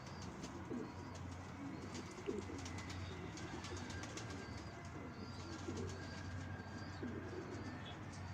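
Domestic pigeons cooing repeatedly, with short high chirps from other small birds over them.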